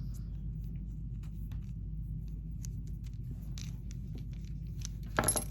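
Beads and their plastic bags being handled: faint, scattered small clicks and light rustles over a steady low hum, with a brief vocal sound near the end.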